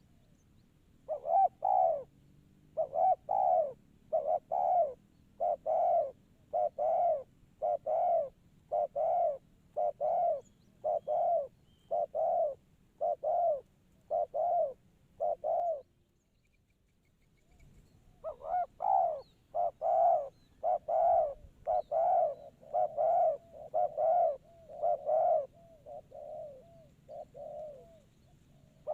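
Spotted dove (tekukur) cooing over and over, about one coo a second; the calls stop for a couple of seconds past the middle, then start again.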